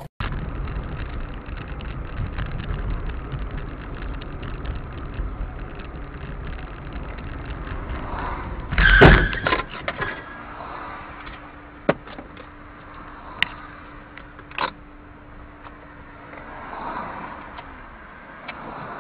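A car on the road, with a steady low rumble of engine and tyres, then a loud sudden bang about nine seconds in, followed by a few sharp knocks and a steady low hum lasting several seconds.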